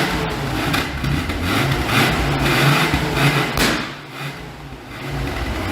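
Mazda RX-5's rotary engine running and revving up and down, easing off briefly about four seconds in.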